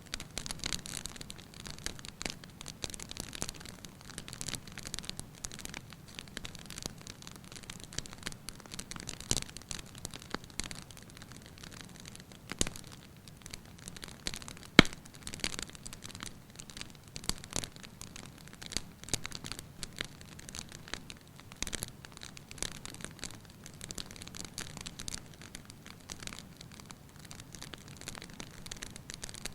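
Wood fire burning in a fireplace: continuous irregular crackling and snapping over a low rumble, with one sharp, loud pop about halfway through.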